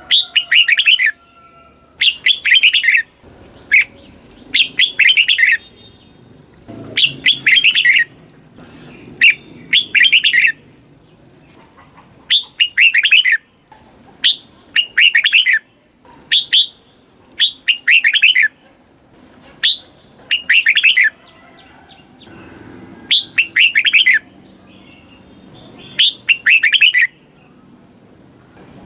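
Red-whiskered bulbul singing: loud, short, quick warbled phrases repeated every second or two, a recorded song played to rouse and teach caged bulbuls.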